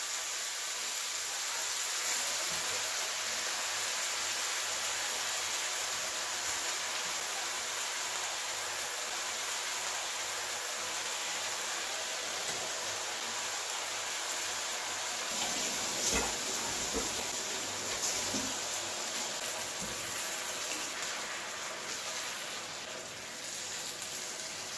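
Prawns and vegetables sizzling in a frying pan, a steady hiss, with a few short knocks past the middle as the prawns are tipped in and stirred.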